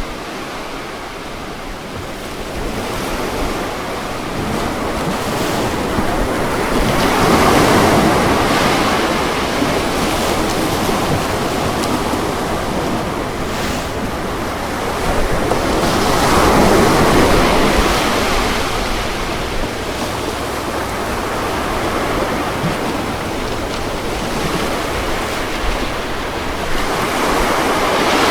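Ocean waves breaking on a shore, a continuous wash of surf that swells about every nine seconds as each wave comes in, three times here.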